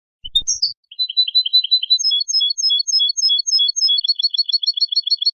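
A songbird singing: a couple of high slurred notes, then runs of short repeated chirping notes, the last run quicker.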